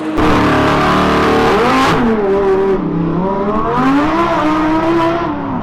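Car engine running hard at high revs, its pitch falling and rising several times as it brakes and accelerates. The sound cuts in suddenly just after the start.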